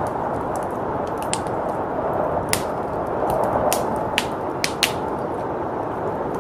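Wood fire crackling, with irregular sharp pops every half second to a second, over a steady rush of blizzard wind.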